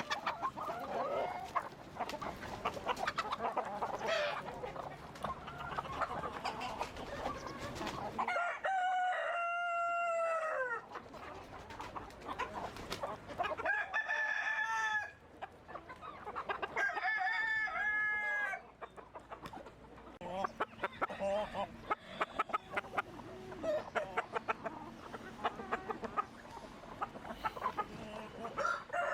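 A flock of chickens clucking steadily, with roosters crowing over it: three long crows in the middle and another starting near the end.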